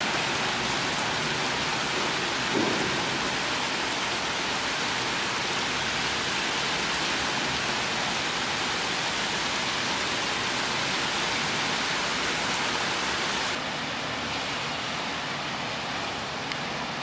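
Steady rain falling, a dense even hiss, with a brief low knock about two and a half seconds in. The hiss turns duller and slightly quieter a few seconds before the end.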